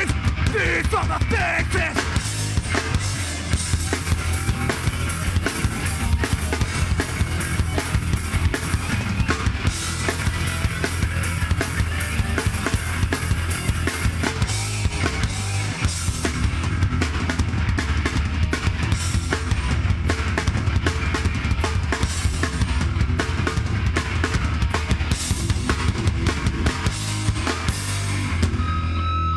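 Live hardcore band playing loud with no vocals: fast, hard-hit drum kit over distorted guitars and bass. Near the end the band stops and a few steady guitar tones are left ringing.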